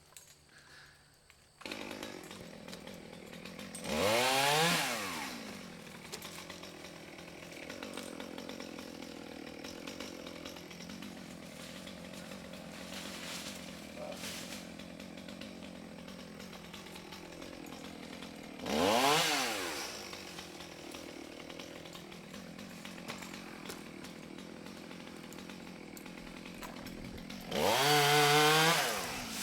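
Small two-stroke chainsaw idling, coming in about two seconds in. It is revved up and back down briefly three times, the last rev near the end the loudest.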